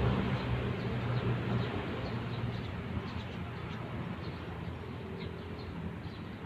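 Outdoor ambience: small birds chirping in short repeated calls over a steady low background hum.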